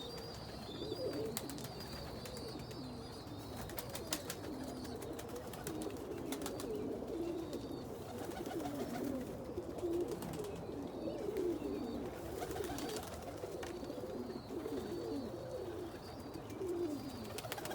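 Many domestic fancy pigeons cooing in a loft, low overlapping coos without a break, with a few brief sharp clicks among them.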